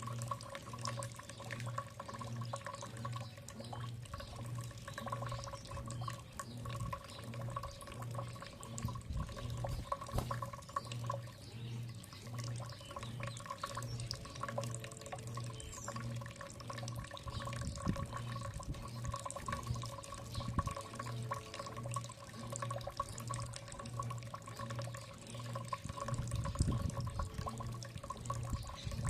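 Water trickling and dripping, with a steady hum and a low, even throb repeating about one and a half times a second.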